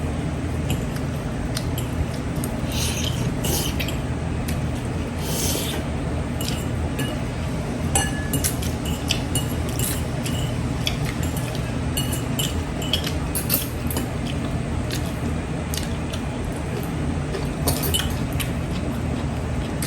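Cutlery clinking and tapping against plates and dishes during a meal, many short light clicks, over a steady low hum.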